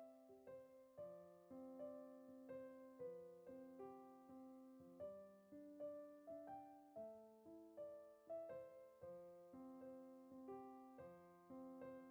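Soft background piano music: a steady, gentle melody of picked notes, each note fading after it is struck.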